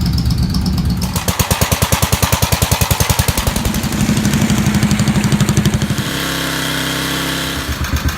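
An engine or motor running loud with a steady hum. For several seconds in the middle it goes to a fast, even chugging pulse, then settles back to a steady hum near the end.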